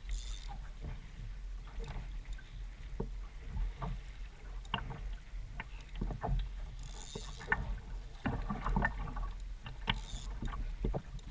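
Water splashing and lapping around an Ocean Kayak Trident 4.3 sit-on-top kayak, with a few brief splashes and many small scattered knocks and clicks on the hull, over a steady low rumble.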